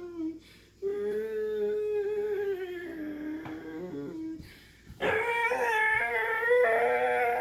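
A dog howling in long drawn-out notes, with two short breaks and a louder howl starting about five seconds in.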